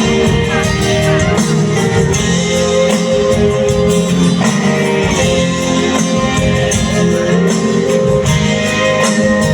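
Live band playing an instrumental passage: guitar over held chords, with bass and drums keeping a steady beat.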